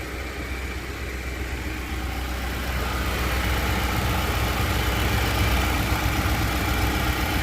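Nissan Patrol's engine idling steadily with the air conditioning switched on and its compressor engaged. The sound gets louder about three seconds in.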